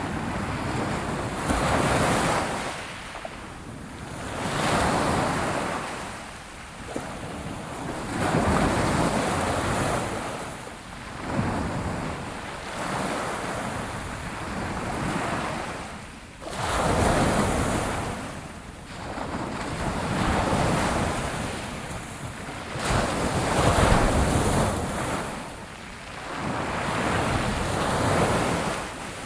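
Ocean waves washing onto a shore, a surge every three to four seconds that swells and falls away.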